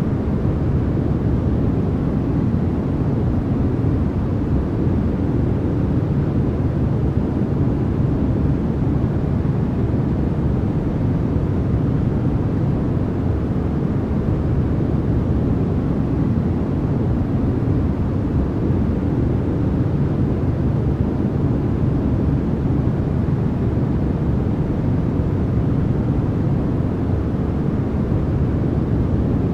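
Continuous generated sleep noise, sold as white noise, steady and unchanging throughout. Most of its weight sits low, so it sounds like a deep, even rumble rather than a bright hiss.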